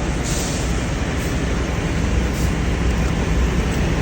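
Truck engine running with a steady low rumble, with two short hisses, one right at the start and one about halfway through.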